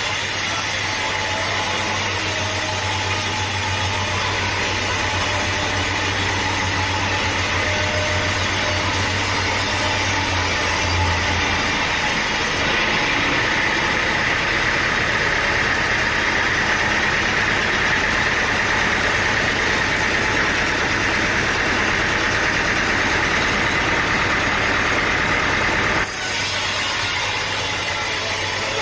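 Sawmill engine running steadily. A low hum in it drops out about eleven seconds in, and the high-end character changes abruptly twice.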